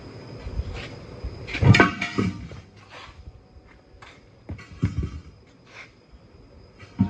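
Irregular metal knocks and clanks from tire tools working an 11R24.5 truck tire on its steel wheel, the loudest about a second and a half in with a brief ringing.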